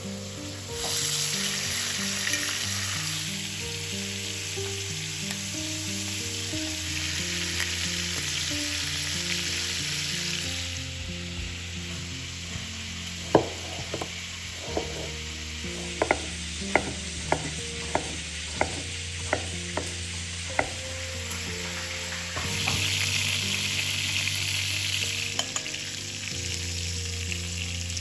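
Food sizzling in hot oil in a frying pan. The hiss swells loud in the first ten seconds and again near the end. In between come about a dozen sharp knocks in quick succession. Soft background music plays underneath.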